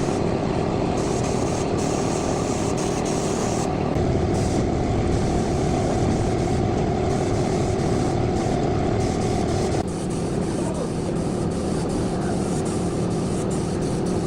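A tractor engine running steadily, with a small drop in level and a change in tone about ten seconds in.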